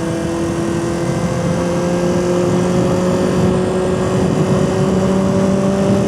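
Honda CB400/4 Super Sport's air-cooled inline-four engine running under way, pulling in gear with its note rising slowly and steadily as the bike gathers speed.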